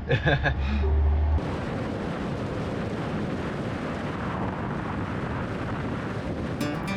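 A voice over a low vehicle hum for about the first second and a half. Then it cuts abruptly to a steady rushing noise of a vehicle moving on the road.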